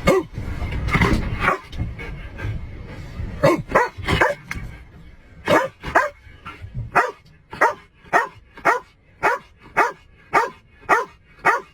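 Dog barking over and over: a few scattered barks at first, then a steady run of about two barks a second through the second half. A low rumbling noise underlies the first part and stops about halfway through.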